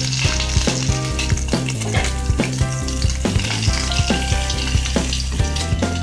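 Whole peeled boiled eggs sizzling in hot oil in a frying pan, a steady hiss that comes in suddenly at the start. Background music with a steady beat plays over it.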